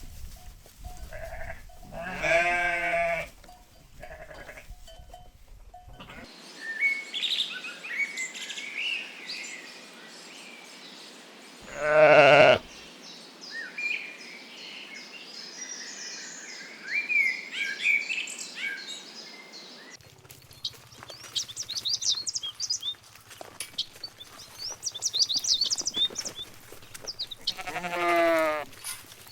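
Sheep bleating three times, each a single drawn-out, quavering bleat, the middle one the loudest. Small birds chirp and sing between the bleats.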